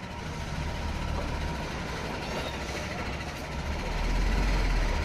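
Hyundai dump truck's diesel engine running with a low rumble that grows louder about four seconds in.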